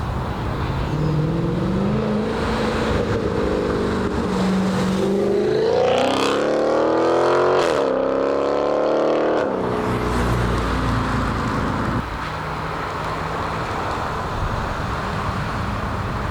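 A car engine accelerating hard, its pitch climbing through the revs with a quick shift about halfway, then the throttle lifted suddenly, dropping back to a steadier lower engine note.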